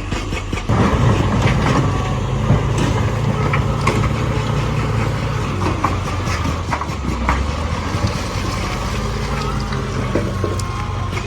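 Heavy diesel engine of earthmoving machinery running steadily, growing louder about a second in, with scattered sharp knocks and clanks over it.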